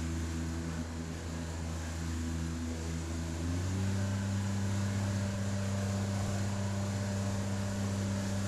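Outboard jet motor of an inflatable river jet boat running under way. About three and a half seconds in it revs up to a higher pitch and holds there, with a hiss of water underneath.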